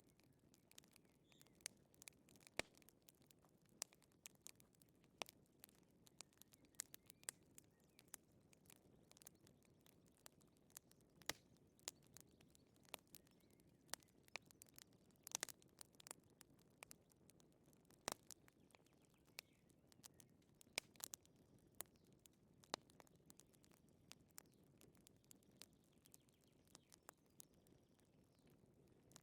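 Quiet crackling of a wood fire: irregular sharp pops and snaps, some louder than others, over a faint low rush.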